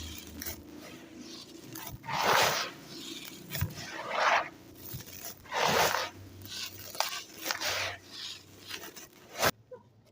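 Dry, gritty red sand crumbling in the hands: a series of crunches, each under a second, the loudest about two, four and six seconds in, with a sharp click near the end.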